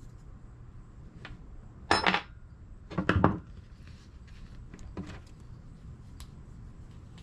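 Metal clinking and clattering as hand tools and engine parts are handled, with two louder rattling bursts about two and three seconds in and a few light single clicks.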